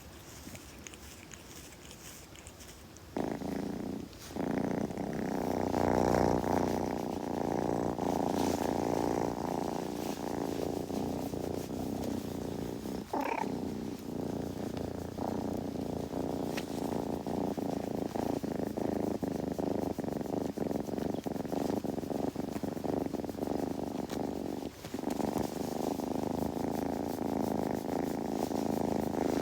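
Kitten purring, starting about three seconds in and running steadily with a couple of brief pauses. About halfway through there is one short high squeak.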